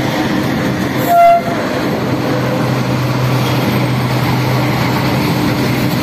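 Freight train hauled by an electric locomotive running steadily past, with one short horn blast about a second in.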